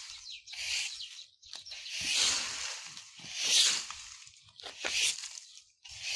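Broom sweeping dry fallen leaves: a series of crunchy, rustling swishes, one stroke about every second to second and a half, the two in the middle the loudest.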